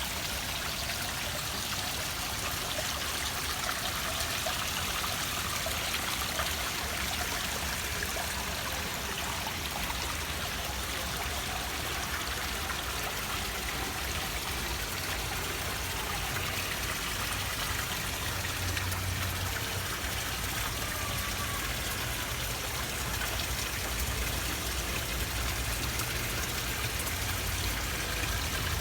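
Water of a man-made rock fountain splashing and trickling steadily, with a low rumble under it growing stronger in the second half.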